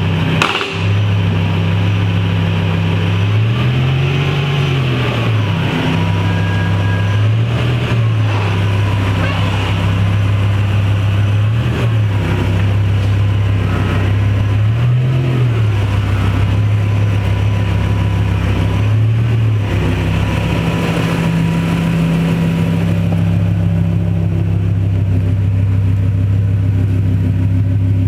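BMW M5's 5.0-litre S85 V10 engine, its mufflers removed, idling with a loud, raw exhaust note. It is blipped about five times, each blip a quick rise and fall in pitch, before settling back to a steady idle.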